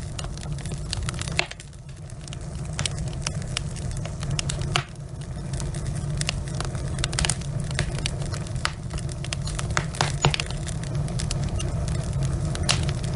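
Wood fire burning in a fireplace: irregular sharp crackles and pops from the logs over a steady low rumble, which drops away abruptly twice in the first five seconds.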